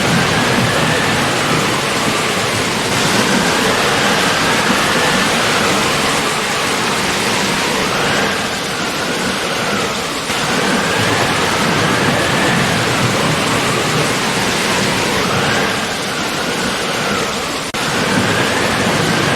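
Steady heavy rain, an even hiss of falling water, with a faint wavering high tone over it.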